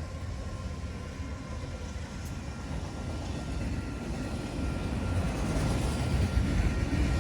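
Train approaching just after sounding its horn: a low rumble that grows steadily louder, with a faint thin steady whine over it.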